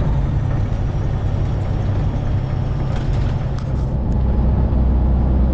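Cab noise of a Freightliner Classic XL semi truck's Detroit Diesel 12.7 L engine running while driving, a steady low drone that deepens about four seconds in.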